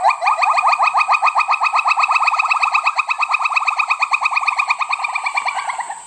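A primate's call: a long run of short, whistle-like rising whoops that quickly speed up to about ten a second, then fade away near the end.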